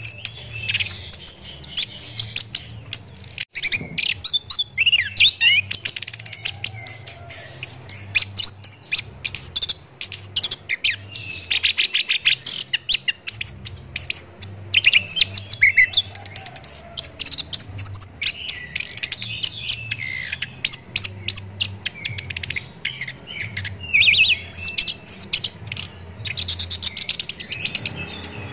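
Chestnut-capped thrush (anis kembang) singing a long, continuous, rapid song of chirps, trills and whistles, a run of varied phrases with hardly a pause.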